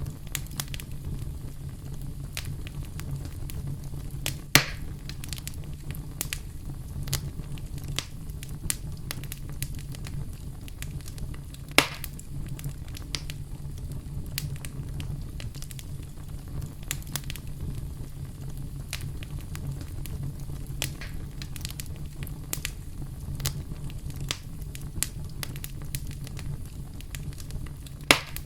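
Campfire crackling: a steady low rumble of burning wood with frequent small crackles and three louder pops, one a few seconds in, one before the middle and one near the end.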